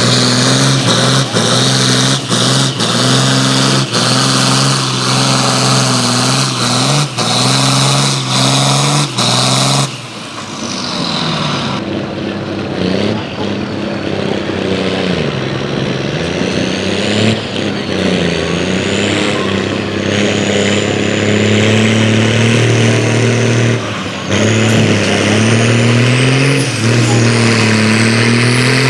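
A pulling vehicle's engine running hard at a steady pitch with a regular sharp clatter. About ten seconds in the sound changes abruptly, and from then on the engine revs up and down repeatedly.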